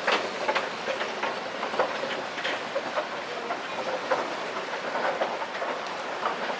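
Sea waves washing over a pebble beach: a steady hiss with many irregular sharp clicks of stones knocking together.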